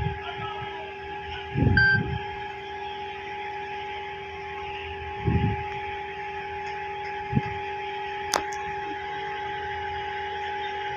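Steady mechanical hum carrying a couple of constant tones, broken by a few low thumps and one sharp click about eight seconds in.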